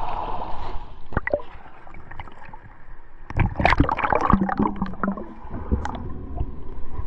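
Water gurgling and splashing around an action camera during a swim, with irregular clicks and splashy bursts, busiest in the middle.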